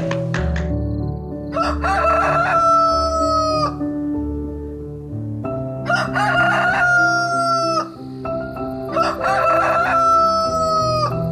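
Rooster crowing cock-a-doodle-doo three times, each call about two seconds long and ending in a drawn-out note, over light background music.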